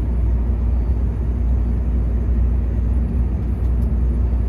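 Volvo truck heard from inside the cab while driving: the diesel engine and road noise make a steady, loud low drone.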